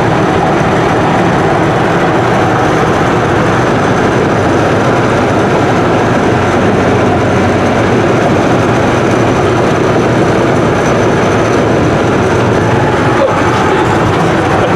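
Pickup truck cruising at highway speed, heard from inside the cab: steady road and engine noise.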